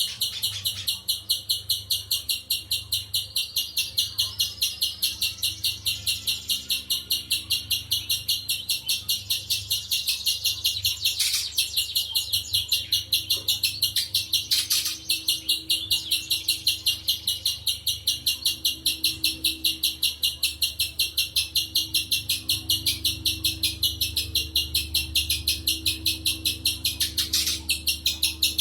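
Spiderhunter calling: a long, even run of short high notes, about four or five a second, with a few sharp clicks along the way.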